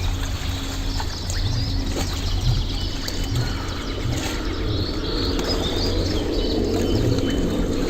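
Many short bird chirps over a steady low rumble.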